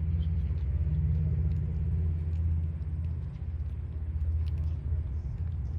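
An engine idling with a steady, deep, pulsing rumble.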